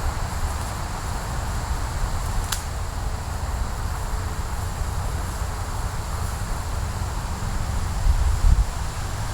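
Outdoor woodland ambience: low wind rumble on the microphone that swells near the end, over a steady high insect drone, with one sharp click about two and a half seconds in.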